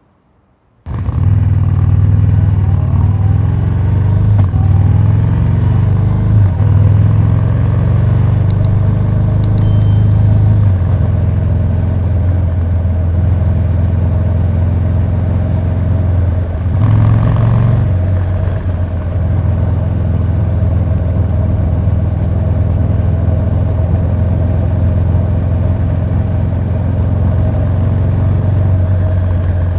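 Harley-Davidson Street 750's V-twin with a Vance & Hines slip-on exhaust starting up about a second in, then idling steadily, with a short blip in the note a little past the middle.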